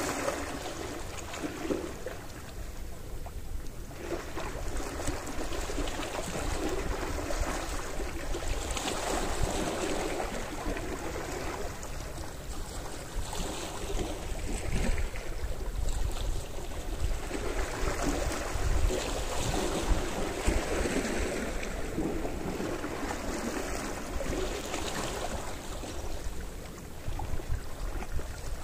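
Small sea waves washing onto the shore, swelling and fading every few seconds, over a steady low rumble.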